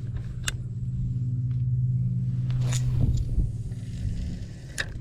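An engine running steadily, a low even hum, with three sharp clicks on top: one about half a second in, one near three seconds and one near the end.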